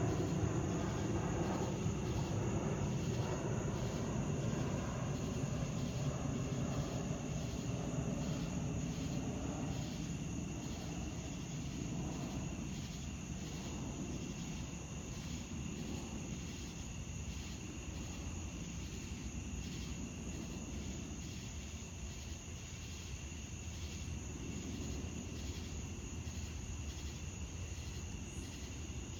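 Night insects chirring in a steady, even pulse throughout. A low rumble is loudest at the start and fades away over the first ten seconds or so.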